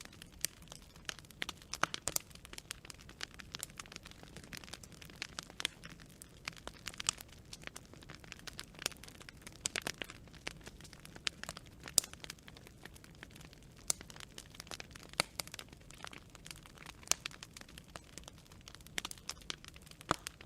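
Campfire of burning wood branches crackling, with frequent irregular sharp pops and snaps over a soft steady hiss of flames.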